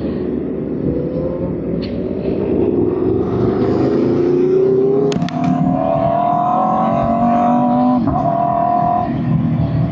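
Sport motorcycle engines revving and accelerating. The pitch climbs steadily, steps up about five seconds in, and drops sharply about eight seconds in.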